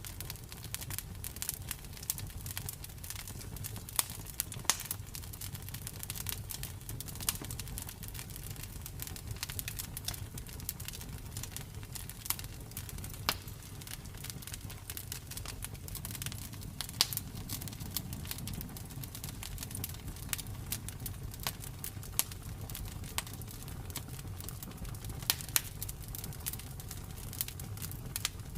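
Campfire burning: wood crackling with irregular sharp snaps and pops over a low, steady rumble. A few louder pops stand out, around four seconds in, about halfway through and near the end.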